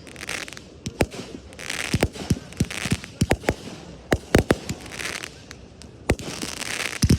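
Fireworks going off: a quick string of sharp bangs at uneven spacing, some close together, with crackling hiss between them.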